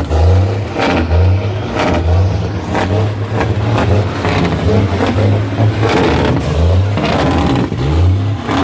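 Truck engine revving and dropping repeatedly as the driver shifts through the gears, with several sharp knocks and rattles.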